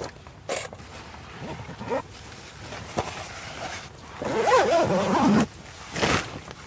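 A wordless human vocal sound, a drawn-out groan that rises and falls in pitch for about a second, about four seconds in, among a few short knocks and rustles of handled gear.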